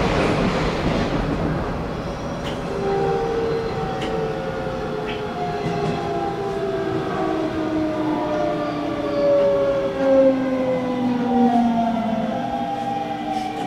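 Hanshin Railway local train's traction motors whining in several tones that slowly fall in pitch as the train brakes for a station stop, with a few faint clicks near the start.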